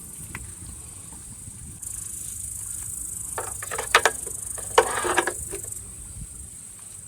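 Insects, likely crickets, chirping as a steady high-pitched hiss throughout, swelling in the middle. Two short, loud rustling or clattering noises come about four and five seconds in.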